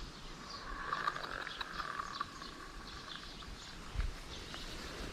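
Outdoor wildlife ambience of repeated short, high chirps. A buzzing, ticking sound runs from just under a second in to about three and a half seconds, and a low thump comes about four seconds in.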